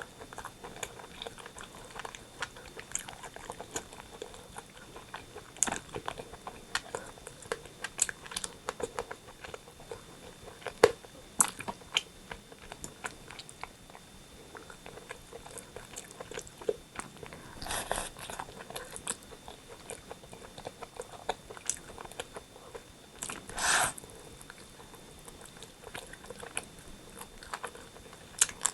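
Close-miked eating sounds of rotisserie chicken: steady biting and chewing with many sharp wet mouth clicks and crunches. Two longer, louder bursts of noise break in, one a little past halfway and another about six seconds later.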